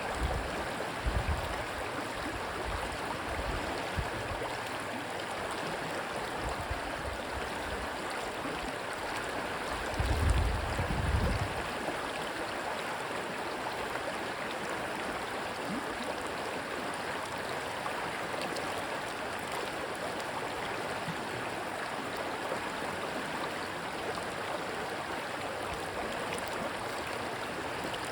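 Rushing stream water, a steady even rush. Short low rumbles of wind on the microphone come about a second in and again around ten to eleven seconds, the second one the loudest.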